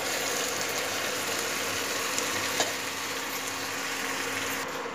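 Chopped capsicum and onion sizzling steadily in oil in a kadai, stirred and scraped with a silicone spatula at first, with one light tap about two and a half seconds in.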